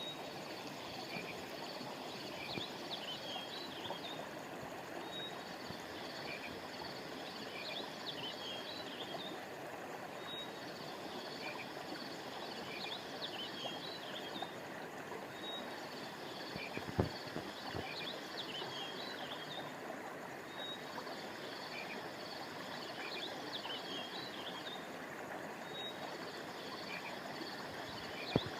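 Steady rushing of river water under a constant high insect trill, with clusters of high chirping calls from frogs or birds that come back about every five seconds. Two sharp knocks, one a little past halfway and one near the end.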